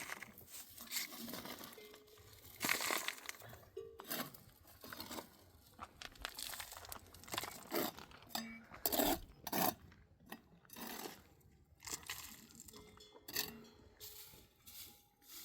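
Irregular clinks, taps and short rustling scrapes of objects being handled.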